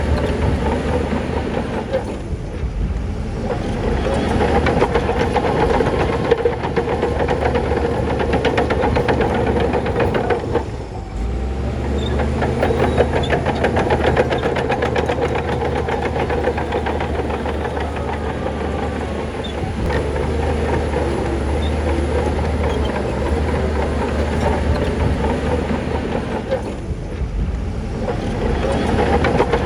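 Crawler bulldozer working: its diesel engine running under load with the steady, rapid clatter of the steel tracks. The sound dips briefly three times.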